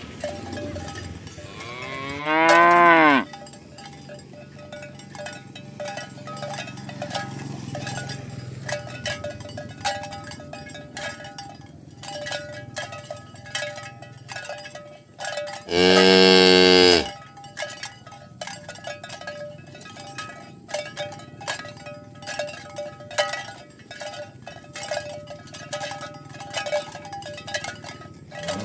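Cattle mooing, two loud drawn-out moos about two seconds in and about sixteen seconds in, with another starting at the very end. Between the moos, a steady irregular clinking goes on.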